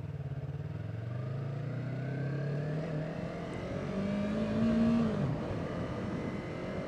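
Yamaha YZF-R3's parallel-twin engine pulling under way, its pitch climbing as the bike accelerates, then dropping suddenly about five seconds in and holding steady.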